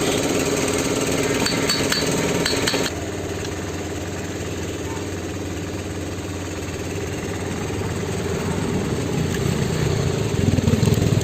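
Powertrac 430 tractor's diesel engine running while driving a fan rigged to it by a pulley. The sound drops suddenly about three seconds in, then grows gradually louder toward the end.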